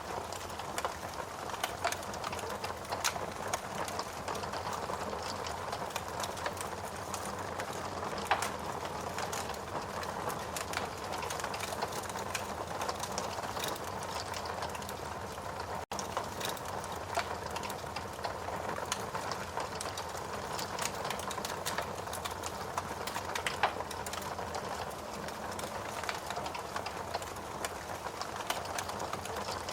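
Wood fire burning in a fireplace: logs crackling steadily with many small pops and a few louder snaps over a soft hiss of flame. There is a momentary dropout about halfway through.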